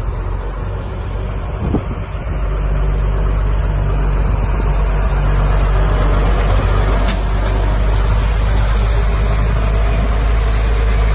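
Renault Camiva fire truck's engine running with a steady low rumble that gets louder about two seconds in and then holds.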